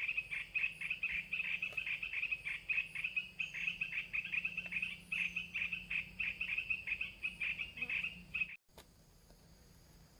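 Recorded bird calls played as a lure from a small MP3 player: a fast run of short chirps, about four or five a second, that stops abruptly about eight and a half seconds in.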